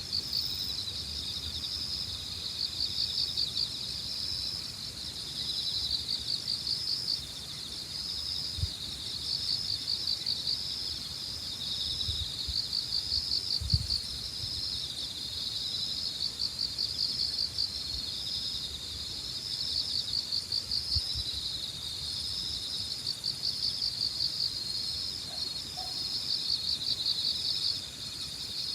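A chorus of crickets trilling in dense, pulsing phrases that rise and fall every few seconds. A few brief low thumps break in now and then.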